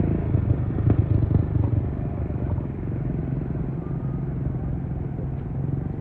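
An engine running steadily with a low rumble, with a few knocks in the first two seconds.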